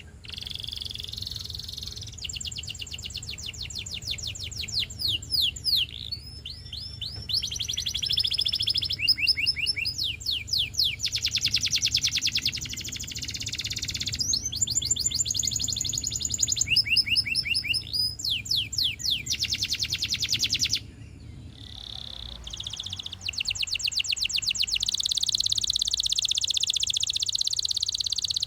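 Russian canary singing a long, continuous song of high, rapid trills, each run of fast repeated notes switching to a new phrase every second or two, with a short pause about three-quarters of the way through.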